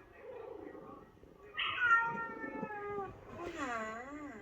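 Cat meowing: two long, drawn-out meows, the first falling slowly in pitch and the second, about three seconds in, wavering down and up.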